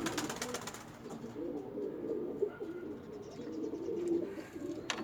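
Domestic pigeons cooing in a loft, a low warbling coo that carries on steadily, with a brief rustle in the first second.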